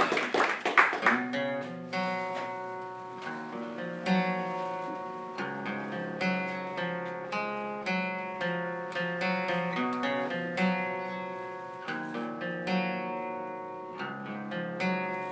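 Acoustic guitar playing a song's intro, picked notes in a pattern that repeats every couple of seconds, with no singing yet. The tail of applause fades out in the first second.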